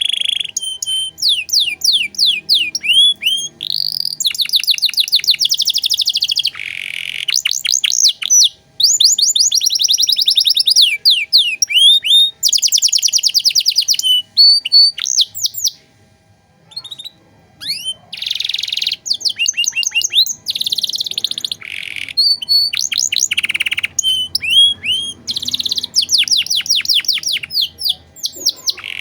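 Domestic canary singing a long, varied song of rapid trills and fast runs of repeated down-sweeping notes, with a short pause about halfway through.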